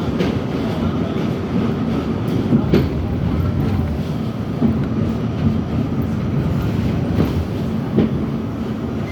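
R68 subway train running on the track: a steady low rumble of the wheels on the rails, broken by a few sharp clacks at rail joints.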